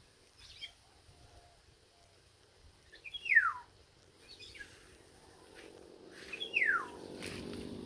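A bird singing: a clear whistle that slides down in pitch, given twice loudly with fainter short notes between. A faint low drone builds near the end.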